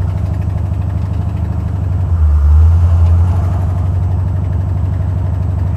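Buick 455 Stage-1 V8 idling, a steady, rapidly pulsing exhaust note with the tick of an exhaust leak from a broken header gasket at the #7 header flange. It is heard from inside the car with the windows down, and it swells louder for about a second starting about two seconds in.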